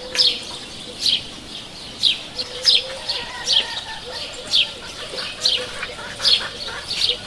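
Birds calling outdoors: a sharp, downward-sweeping chirp repeated about once a second, with fainter, lower whistled calls in between.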